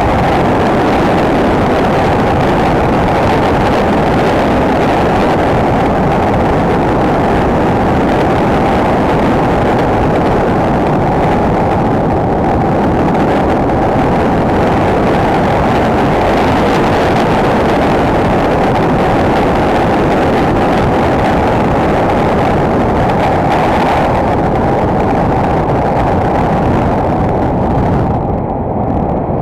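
Enduro motorcycle on the move: its single-cylinder engine running steadily, mixed with a dense rush of wind and road noise on the action camera's microphone. The noise eases slightly near the end.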